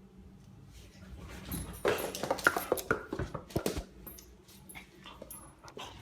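A dog whining in a quick run of short cries, loudest from about two to four seconds in.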